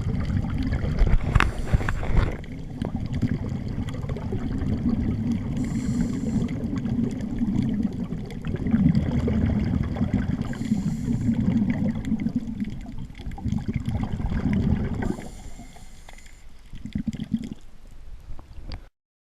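Underwater recording on a scuba dive: a steady low rumble of water on the camera housing, with four short hissing bursts of a diver's exhaled regulator bubbles about every four to five seconds. The sound cuts off suddenly near the end.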